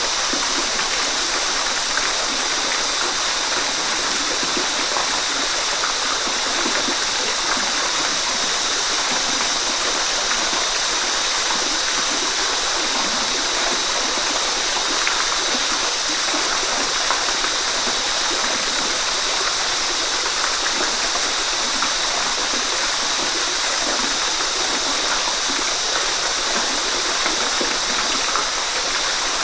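Waterfall: water falling and splashing in a steady, even noise that does not let up.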